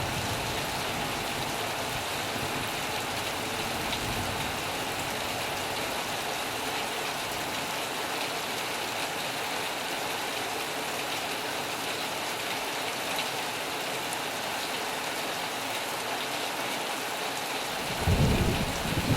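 Heavy rain falling steadily on a metal roof, with a low rumble of thunder starting near the end.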